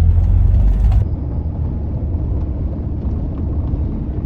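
Steady low rumble of engine and road noise inside a moving motorhome. About a second in the deepest rumble and the hiss drop away abruptly, and a slightly quieter, even rumble carries on.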